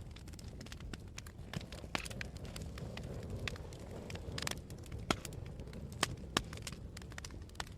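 Campfire burning with frequent irregular crackles and sharp pops over a low steady rumble; the loudest pops come about five and six seconds in.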